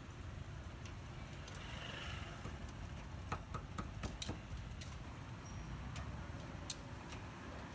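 Street-stall background with a steady low rumble and scattered sharp clicks and taps, several in quick succession in the middle, like utensils knocking.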